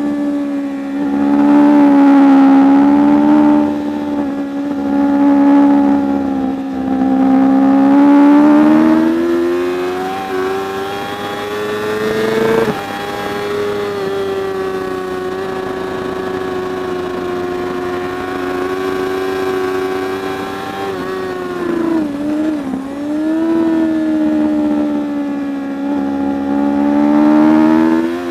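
Superbike racing motorcycle engine running hard at race speed, its pitch rising and falling with throttle and gear changes. The pitch holds steady and high through the middle, dips sharply about three-quarters of the way in, then climbs again near the end.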